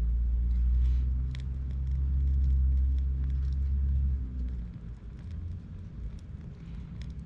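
Low engine rumble of a motor vehicle, loudest for the first four seconds or so and then dying away, over the scattered crackles and pops of a campfire.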